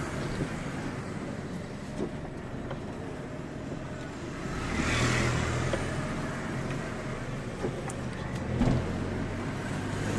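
Road traffic: a steady low rumble, with a vehicle passing by about five seconds in, its hiss swelling and fading over a couple of seconds. A short thump comes near the end.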